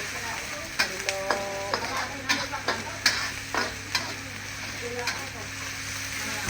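Birds frying and sizzling in a pan while being stirred, with the spatula knocking and scraping against the pan at irregular moments.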